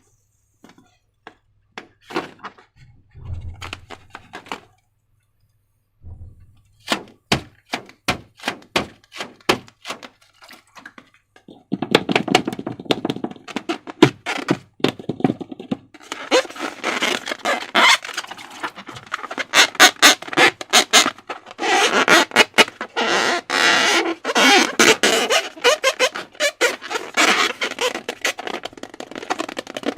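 Slime being squeezed and worked by hand, making sticky clicks and crackles. At first the clicks come separately, about two a second; about twelve seconds in they become a dense, continuous crackling.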